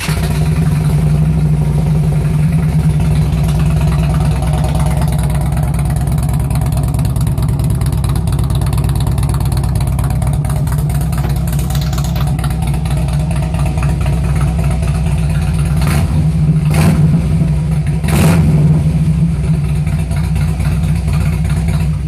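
Harley-Davidson Road King's Twin Cam 88B V-twin idling loudly through mufflers gutted of their packing, with only the perforated baffle tubes left in. A few quick throttle blips come about three-quarters of the way through, and the engine is shut off at the very end.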